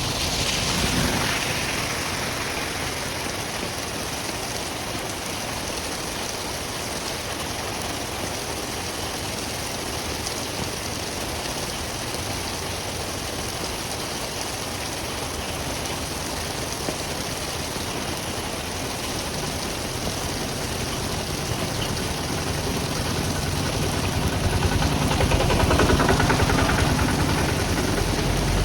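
Steady rain and running water at a street drain, with a vehicle engine growing louder near the end.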